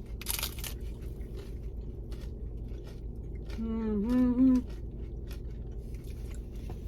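A bite into a crunchy taco shell right at the start, followed by faint crackling and chewing, with a voice heard briefly about four seconds in.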